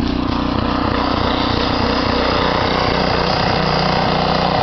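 Gasoline snowblower engine running steadily at close range.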